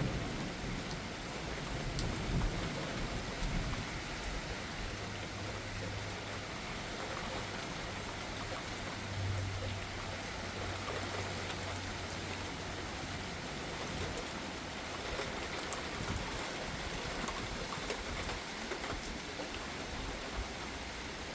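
Steady rain falling hard during a thunderstorm, with thunder rumbling low underneath through the first half.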